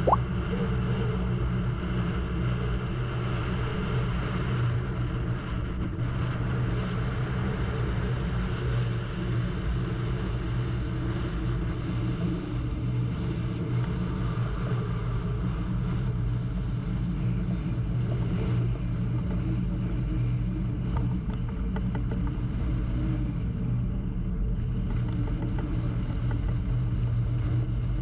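A crew launch's engine running steadily underway, a constant low hum, with wash and wind noise over it. A brief click right at the start.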